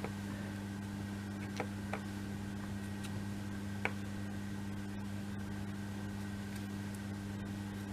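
Steady low electrical hum, with a few faint small clicks from handling laser-cut kit pieces.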